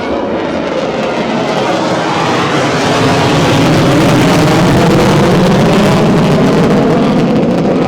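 A loud engine running close by, growing louder toward the middle and cut off abruptly at the end.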